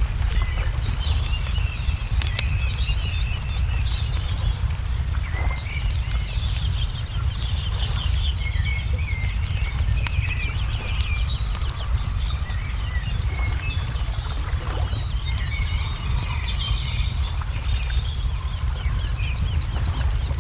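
Wood fire crackling with scattered sharp pops, over a steady low rumble, while small birds chirp and sing throughout.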